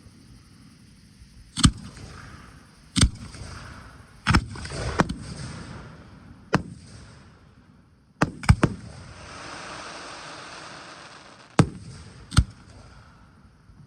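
Aerial fireworks bursting: about ten sharp bangs at irregular spacing, several trailed by a crackling hiss, with a quick run of three bangs about eight seconds in followed by the longest stretch of crackle.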